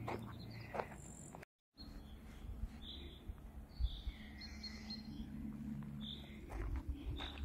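Small birds chirping in short separate calls, with a brief warbling phrase about four seconds in. Footsteps on a trail come at the start and again near the end, and the sound drops out completely for a moment about a second and a half in.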